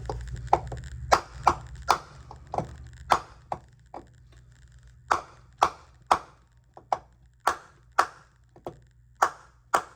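A hammer striking a wooden block again and again, about two blows a second with a brief pause partway through, driving a stuck pulley off a golf cart starter-generator shaft.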